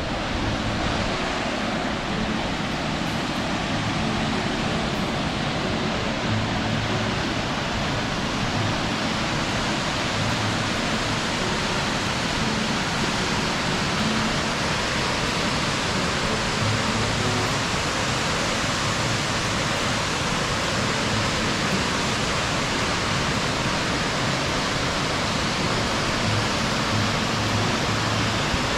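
Car driving along an unsealed country road, heard from inside: a steady rush of tyre and road noise with a low engine hum that swells now and then.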